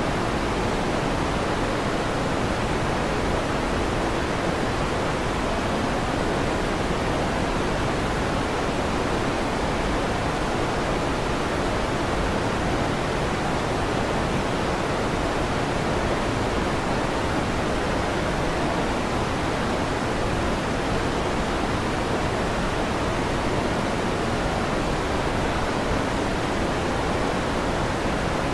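Electric fan running: a steady, even rushing noise with no changes or sudden sounds.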